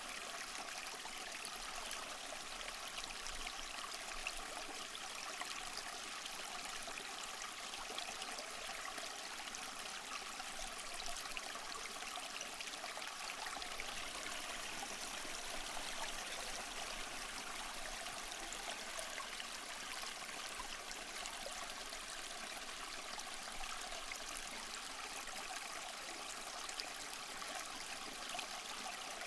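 Small mossy waterfall: water splashing and trickling steadily over rocks, an even rush with no breaks.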